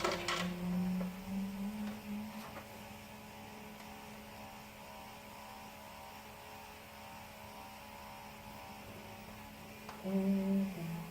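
Steady low electrical hum. A few sharp clicks sound in the first half second, and a low tone stepping in pitch comes briefly at the start and again near the end.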